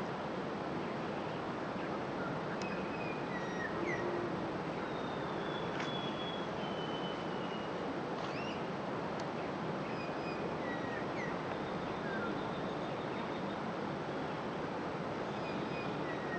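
Steady outdoor hiss with faint, scattered high chirps and short down-slurred whistles of small birds calling now and then.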